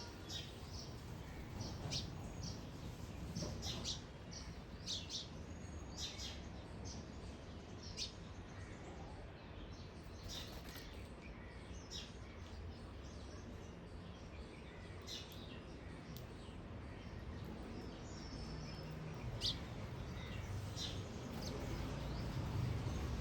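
Small birds giving short, scattered chirps over a steady low background rumble that grows louder near the end.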